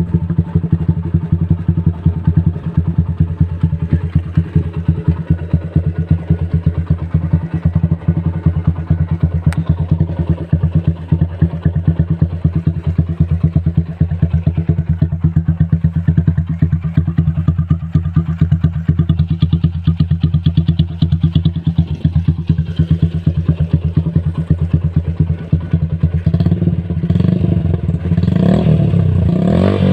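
Modified Apache motorcycle's single-cylinder engine running through custom dual silencers, idling with an even pulsing beat. About four seconds before the end it is revved up and down a few times.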